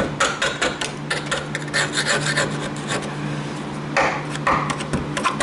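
Rapid back-and-forth scraping strokes, several a second, on the steel of a car's tailgate, clearing caked dirt and rust from the lower seam. A harder stroke comes about four seconds in.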